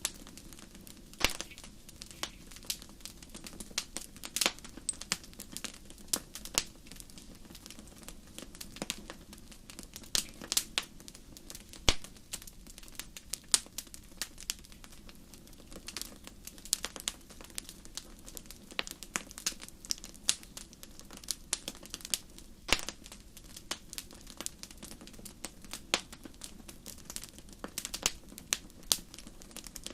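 Wood fire crackling: irregular sharp pops and snaps, a few much louder than the rest, over a low steady rush of the burning fire.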